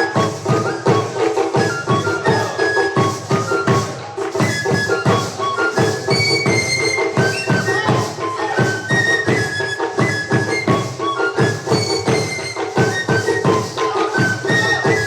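Traditional flute-and-drum music: a high flute plays a quick melody over a fast, steady drumbeat.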